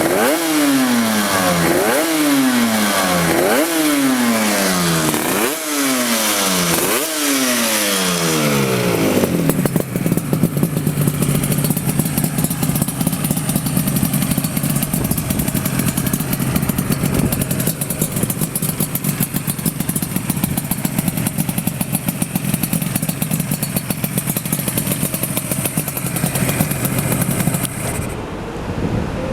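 Yamaha RZ350 two-stroke twin engine with an AREA47 expansion-chamber exhaust, revved in about six quick throttle blips, each a sharp rise in pitch followed by a fall. About nine seconds in it settles into a steady, even run.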